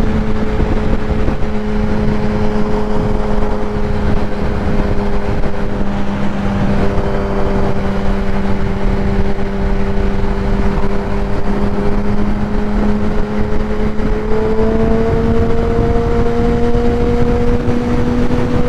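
Kawasaki ZX-10R's inline-four with a Graves race exhaust running at a steady highway cruise under heavy wind rush on the microphone. The engine note dips slightly about a third of the way in, then rises gradually near the end as the bike speeds up a little.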